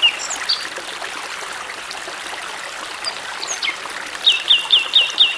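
A stream trickling steadily while birds call, with a few scattered chirps early on and a quick run of five falling whistled notes near the end.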